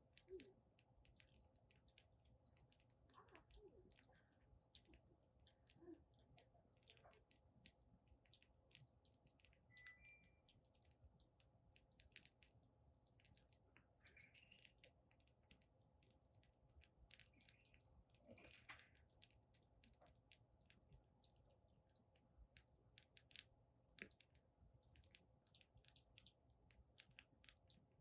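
Firewood burning in a fire pit, crackling faintly with many small irregular snaps and pops.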